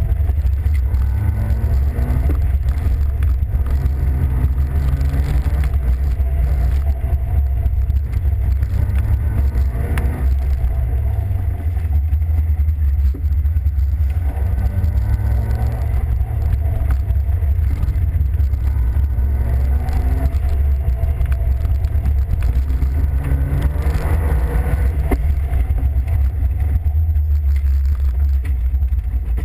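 Peugeot 205 XS's four-cylinder petrol engine heard from inside the cabin, revving up through the gears and backing off about half a dozen times while it is driven round a timed cone course. A heavy low rumble of road and wind noise runs underneath.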